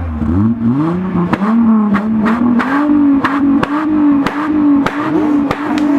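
VW Vento VR6 engine revved up and down a few times, then held at high revs with a slight waver. Sharp cracks sound a few times a second over it.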